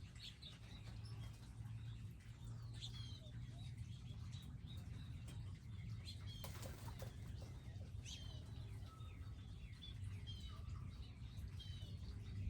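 Small wild birds giving scattered short chirps and calls, with a brief flurry of wingbeats about six and a half seconds in. A steady low hum runs underneath.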